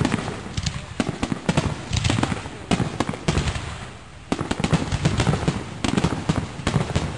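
Aerial fireworks shells bursting in quick succession, a dense run of sharp bangs, with a brief lull about four seconds in before the bangs pick up again.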